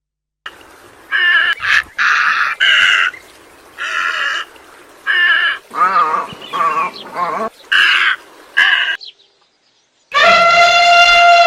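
Animal calls: a run of short pitched calls, then after a brief silence one long held call that falls in pitch at its end.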